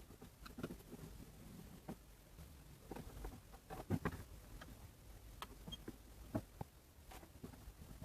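Faint, irregular clicks and knocks of small objects being handled, with a few louder knocks around the middle.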